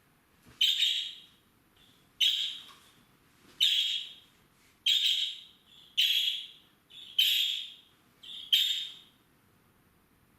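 A bird calling: seven short, sharp chirps at even intervals of about one and a half seconds, most with a small softer note just before, stopping about a second before the end.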